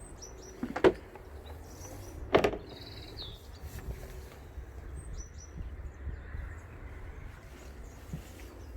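Two loud knocks about a second and a half apart, each with a brief ring, over a low rumble, with scattered bird chirps throughout.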